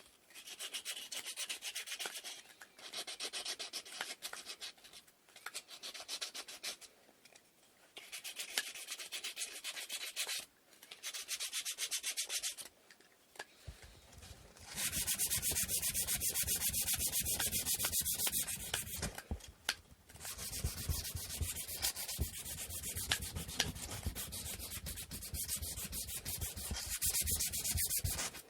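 Hand sanding of wooden inkle loom parts with sandpaper: quick back-and-forth rasping strokes. For the first half they come in short spells with brief pauses between them. From about halfway they run louder and nearly continuously.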